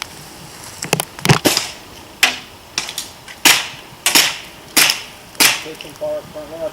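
Airsoft guns firing single shots, about ten sharp cracks over five seconds, some in quick pairs.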